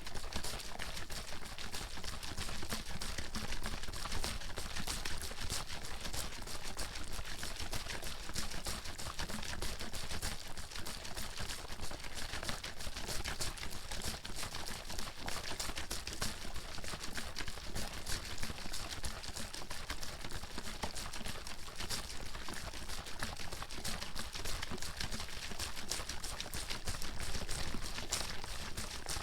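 Bottle of water being shaken continuously, the water sloshing and slapping inside in rapid, unbroken strokes.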